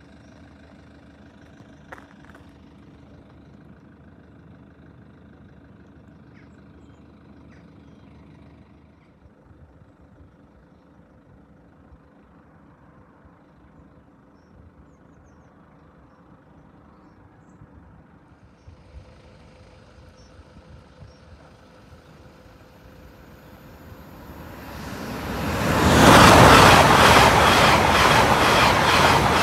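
LNER Azuma Class 801 electric express train (unit 801205) running through the level crossing. From about three-quarters of the way in, a loud rush of train noise builds quickly and holds, with a rapid regular clatter of wheels over the crossing rails.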